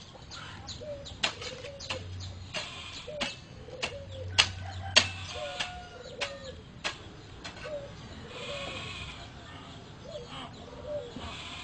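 A bird cooing in short low calls, repeated every half second or so, mixed with many sharp clicks.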